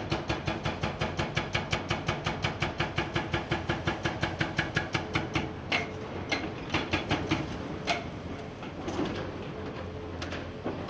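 Hydraulic breaker hammer on a Komatsu PC490 excavator pounding rock in a rapid, even run of about seven blows a second. The blows slow to a few separate strikes and stop about eight seconds in, leaving the excavator's engine running.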